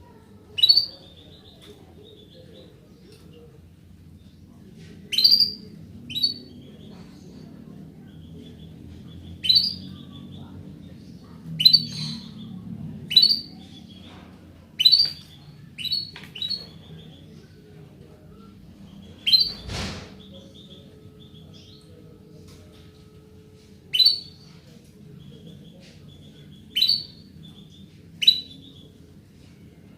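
Female canary giving short, sharp chirping calls one at a time at uneven intervals, about fourteen in all, over a steady low background rumble. A single sharp click about twenty seconds in.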